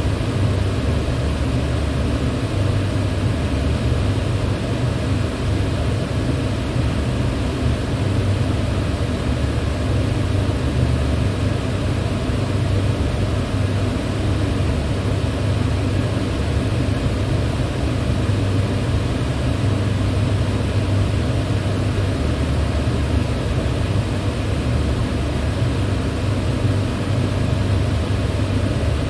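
Electric fan running steadily: an even rush of air over a low hum that never changes.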